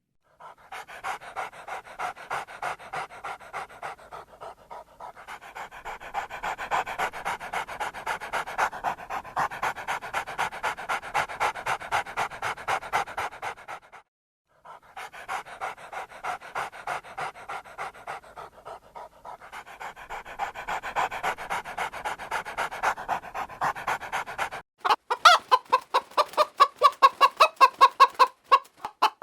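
A dog panting fast and steadily, about three breaths a second, with a short pause about halfway through. Near the end it gives way to a louder chicken clucking.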